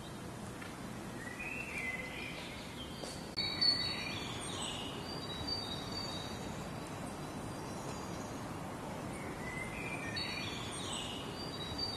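Songbird singing in short, repeated chirping phrases over faint, steady outdoor background noise.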